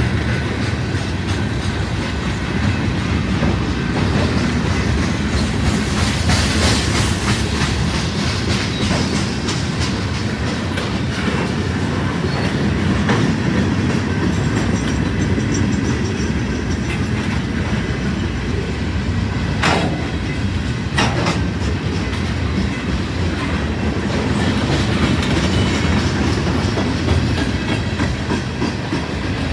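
Freight train cars rolling past on the rails with a steady rumble and wheel clatter, and two sharper clicks about 20 and 21 seconds in.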